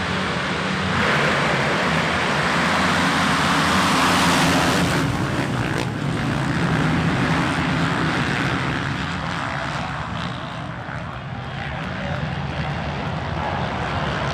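Motocross bike engines at full throttle on the track, swelling about a second in and easing off after about five seconds as the bikes pass.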